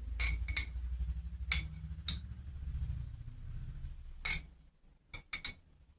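Kitchen utensils clinking against dishes or a jar: about eight sharp, ringing clinks, a few close together near the end, over a low steady hum that cuts off about three-quarters of the way through.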